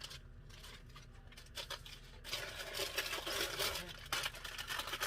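Rustling and crinkling of instant ramen packets and dry noodle blocks being handled, a dense run of small crackles starting about two seconds in after a quieter start.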